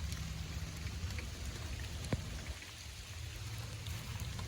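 Steady rain falling, with scattered drops tapping and one sharper tap about two seconds in.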